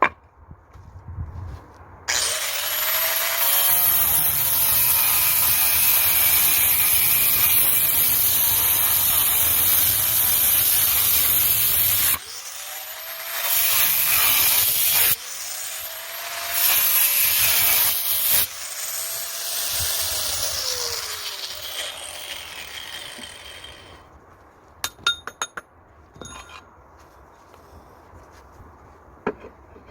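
Power tool cutting in several long, loud runs. It stops briefly about twelve, fifteen and eighteen seconds in, then winds down. A few light knocks follow near the end.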